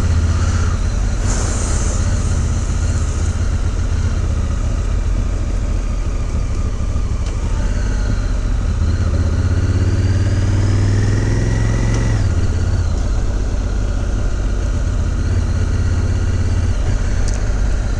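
Honda Africa Twin parallel-twin motorcycle engine running at low city speed under steady road noise. The revs climb for a few seconds around the middle, then drop back once.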